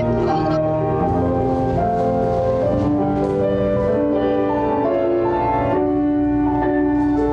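Slow instrumental music on a keyboard instrument: held chords that change about once a second, with no voices.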